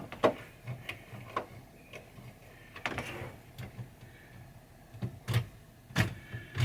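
Scattered clicks and knocks of small hardware being handled while washers and screws are fitted to level Rudy's head mechanism, with a short rustle about three seconds in.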